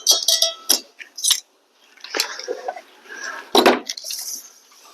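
Wooden studs being handled while they are measured and marked: scattered clicks and scrapes, then a single loud knock of wood about three and a half seconds in.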